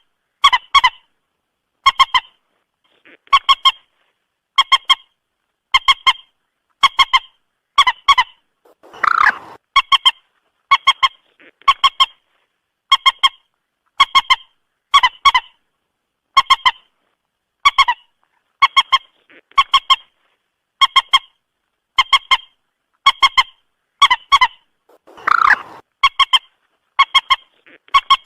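Moorhen calling: a short, sharp double-noted call repeated about once a second. Two longer, harsher calls come about nine seconds and twenty-five seconds in.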